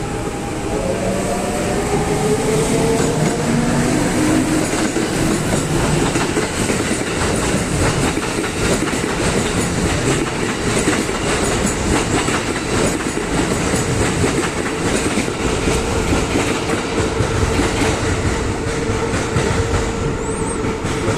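Kintetsu 1233-series and 8A-series electric train pulling away. The traction motors whine, rising in pitch over the first few seconds as it accelerates, then settle into a steady hum. The wheels clack over the rail joints as the cars pass.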